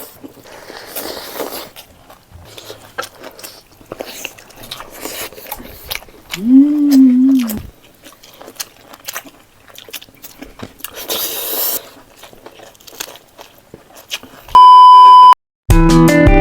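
Close eating sounds: chewing and biting with small wet clicks and smacks. About six seconds in, a voice hums for about a second. Near the end there is a loud steady beep tone lasting under a second, then guitar music starts.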